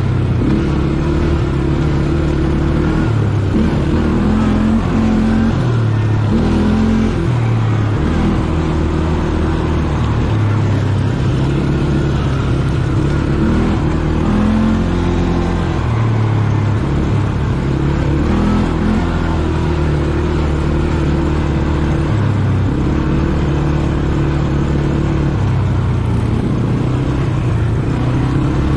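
ATV engine running under way, its pitch stepping up and down every second or two as the throttle changes.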